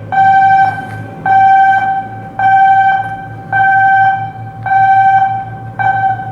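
An electronic warning alarm beeping in a steady on-off pattern: six loud, even, buzzing tones of about half a second each, roughly one a second, over a low machinery hum.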